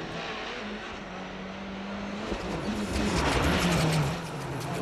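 Onboard sound of a World Rally Car's turbocharged four-cylinder engine pulling at high revs. Its note holds steady, then drops in pitch about halfway through as the driver lifts off. A loud rush of noise swells around three seconds in.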